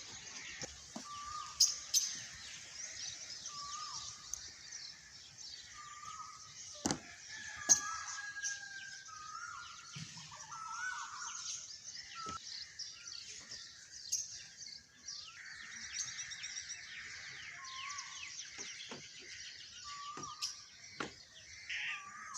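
Many small birds chirping and twittering together, with one lower, short call repeated about every two seconds and a few sharp clicks in between.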